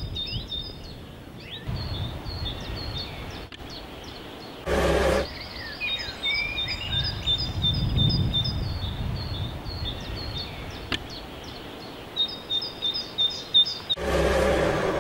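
Wild birds singing, with many quick high chirps and trills repeating throughout, over low wind rumble. Two brief bursts of louder rushing noise come about five seconds in and again near the end.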